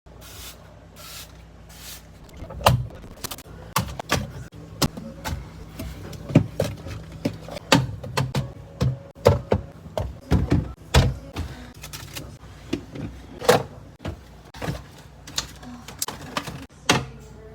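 Irregular clicks, taps and knocks of containers and items being handled, moved and set down while a fridge is cleaned and organized, over a low steady hum.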